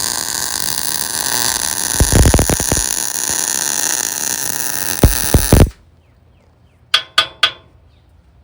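Wire-feed welder arc hissing and crackling steadily, with two loud low thumps partway through. It cuts off suddenly after about five and a half seconds. Three sharp taps follow in quick succession.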